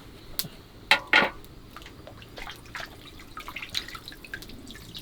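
Water splashing and dripping as leafy vegetables are washed by hand in water, with two sharp knocks about a second in and scattered small splashes after.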